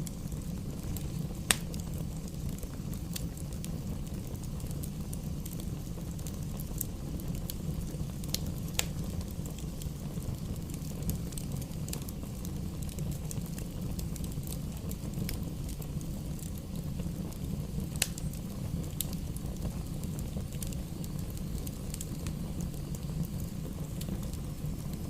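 Campfire burning with scattered crackles and sharp pops over a steady low rumble. The loudest pops come about a second and a half in, around nine seconds and around eighteen seconds.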